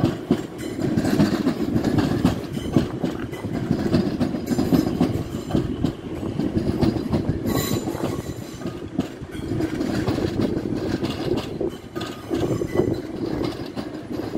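Elizabeth line Class 345 electric train running slowly into the station, its wheels clicking repeatedly over the rail joints and points, with a brief high-pitched sound about halfway through.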